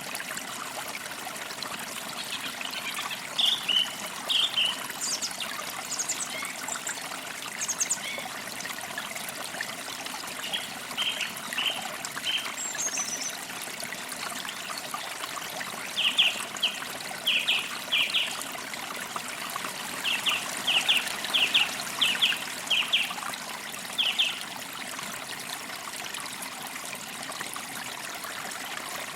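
A forest creek trickling steadily, with small birds chirping in short, quick notes over it. The chirps come in scattered clusters, thickest in the middle to later part.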